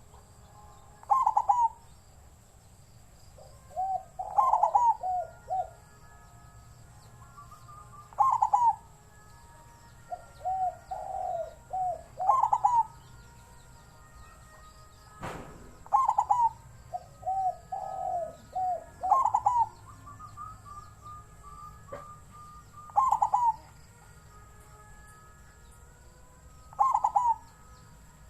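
A captive-bred zebra dove cooing: loud phrases of quick, rolling coos repeated every few seconds. Fainter chirps from other birds sound between the phrases, and there is a single sharp click about halfway through.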